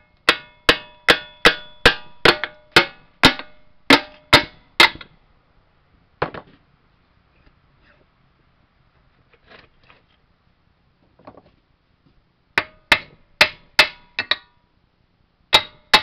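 Hammer blows on the crankcase of a blown 1994 Briggs & Stratton 12.5 HP engine, knocking the crankcase loose after its bolts were undone. About a dozen quick strikes with a metallic ring, one lone blow, a pause with a few faint knocks, then another run of about five strikes near the end.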